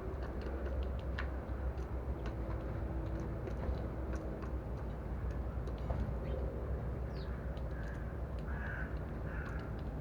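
Sparrows pecking seed from a dish, a quick irregular run of light ticks, over a steady low rumble. Three short bird calls come near the end.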